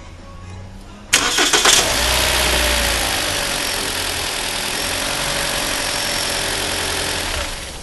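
Toyota 3ZR inline-four petrol engine started: the starter cranks for under a second and the engine catches at once, a quick normal start, then it runs at a steady fast idle for about six seconds before being switched off near the end.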